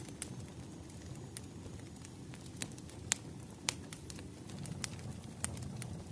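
Wood fire crackling: irregular sharp pops and snaps over a low, steady rumble of burning, with the loudest pops about three seconds in and again shortly after.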